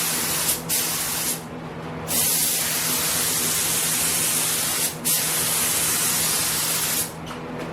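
Compressed air hissing from a hand-held air gun on the truck body, triggered in four bursts, the last two lasting a few seconds each.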